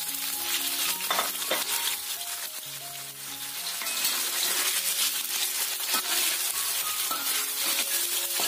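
Tofu pieces deep-frying in hot oil in a wok, a dense, steady crackling sizzle, with a few sharp clicks of a utensil against the wok as the pieces are stirred and turned. Soft background music with held notes plays underneath.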